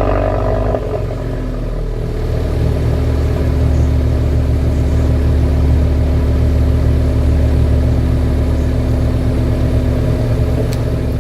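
Hyundai Avante AD Sport's 1.6 turbo four-cylinder idling cold through an aftermarket variable-valve exhaust. The sound drops a little under a second in, then settles into a steady idle.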